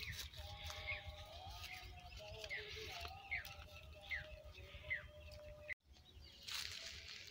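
Faint bird calls: a short downward chirp repeated about once a second. Near the end there is a brief break in the sound, then a rustle of leaves and brush.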